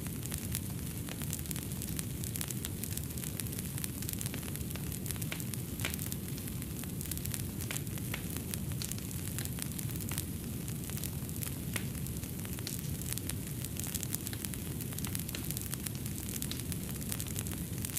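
Fireplace fire crackling: many small irregular pops and snaps over a steady low rumble of flame.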